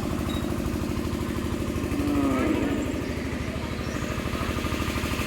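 An engine running steadily with a fast, even pulse. A voice is heard briefly about two seconds in.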